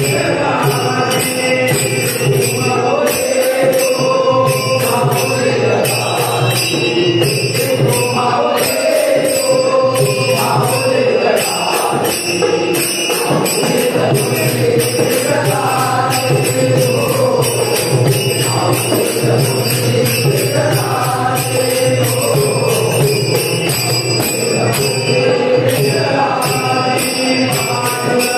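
Marathi devotional bhajan: voices singing an abhang in a chant-like melody over small hand cymbals struck in a steady beat.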